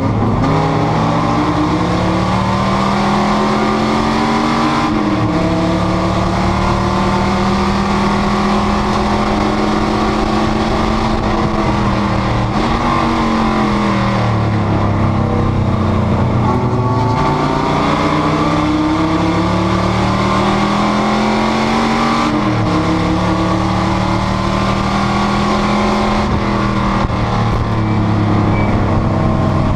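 Panoz GTS race car's engine running hard on track. Its pitch climbs slowly and falls off sharply several times as it changes gear and lifts.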